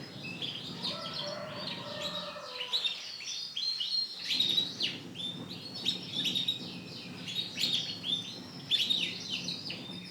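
Canaries chirping in rapid, busy runs of short high notes, with a faint low hum underneath.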